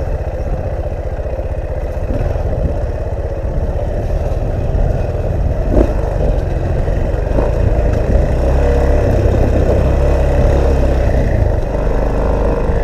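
Off-road motorcycle engine running at low speed, a little louder from about eight seconds in, with wind buffeting the microphone.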